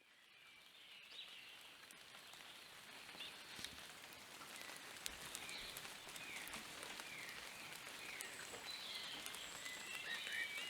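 Steady rain falling, with scattered drops pattering, fading in over the first couple of seconds. Short, falling, high chirping calls join in here and there and grow more frequent near the end.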